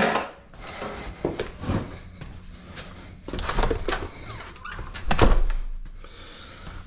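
A dog close by, with several short, irregular noisy bursts and a heavier thump about five seconds in.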